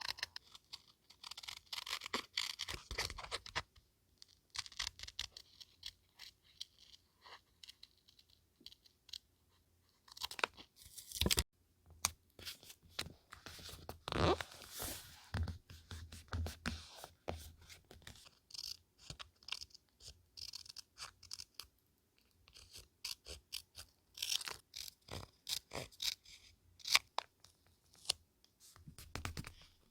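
Paper being handled close to the microphone: irregular crinkling, rustling and crisp tearing in short bursts, with a few brief pauses and a sharper snap about eleven seconds in.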